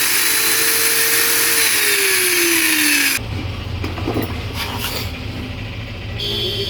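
Angle grinder's universal motor running free on a series test lead with a high whine and hiss, its pitch sagging over the last second before it cuts off abruptly about three seconds in; then light clatter as the grinder is handled. It runs when wired past its switch, the sign that the switch is faulty.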